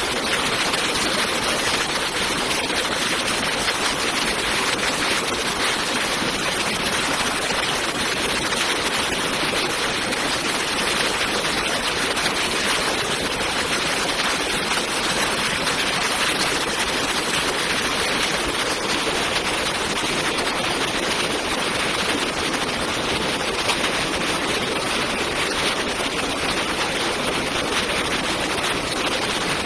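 Fast-flowing floodwater rushing steadily, a constant even wash of noise with no breaks.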